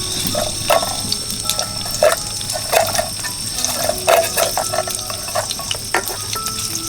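Water splashing in short, irregular bursts, like something being washed by hand in a sink or basin.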